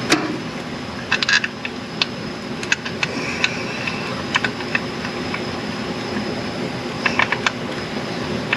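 Scattered light metallic clicks and clinks, some single and some in quick clusters, as cylinder-head bolts are handled, over a steady hum of shop background noise.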